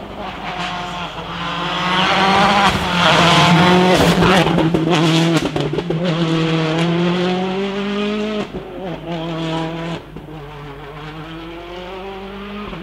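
Rally car passing at full throttle, engine revving up hard, loudest a few seconds in. The pitch drops sharply at a gear change about two-thirds of the way through, then climbs again as the car pulls away.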